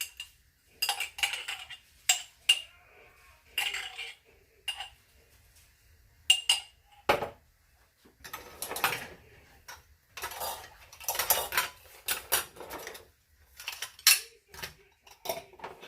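A metal spoon scraping and clinking against glass jam jars as thick jam is spooned out, in a run of separate knocks and short scrapes with a few longer scrapes in the second half.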